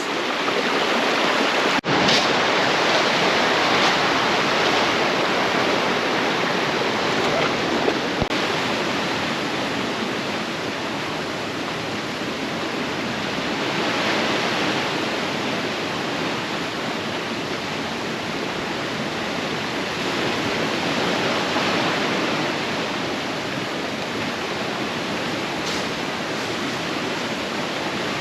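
Rushing water of a rocky brook, a steady hiss that swells and eases slowly, with a brief dropout about two seconds in.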